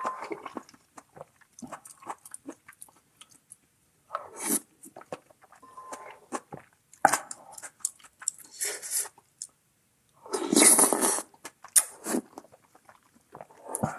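A person chewing and biting food close to the microphone, from a meal of hand-cut noodle soup, chive pancake and kimchi. Scattered small clicks with a few louder, longer bursts, the biggest about eleven seconds in.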